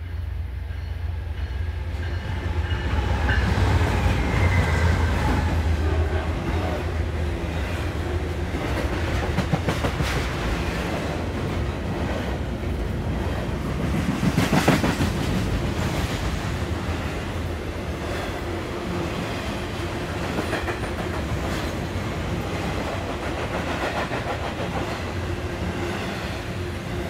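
Norfolk Southern intermodal freight train passing close by. A low diesel rumble, loudest about four seconds in, gives way to the steady clickety-clack of wheels over rail joints as the container cars roll past, with one brief louder surge about halfway through.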